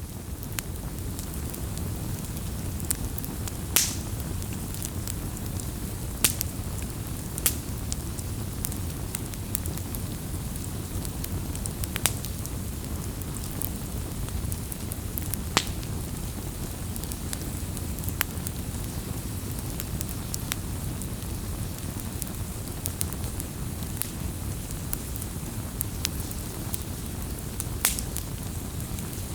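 Wood fire burning: a steady low rush of flames with irregular sharp crackles and pops from the burning wood.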